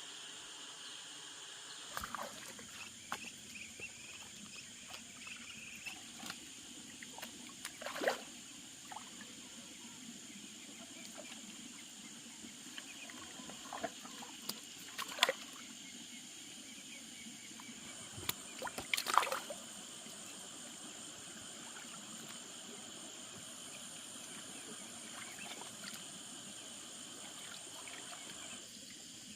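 Water sloshing and trickling, broken by a few brief sharp splashes, the biggest about 8, 15 and 19 seconds in, over a steady high insect drone.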